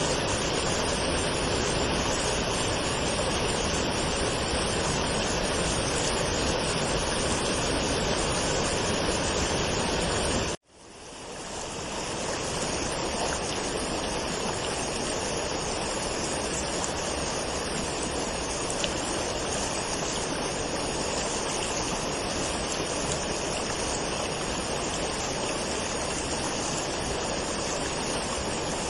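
Steady rushing of a waterfall. About ten seconds in it cuts out abruptly and fades back in over a couple of seconds, a little lighter in the low end afterwards, like a splice between recordings.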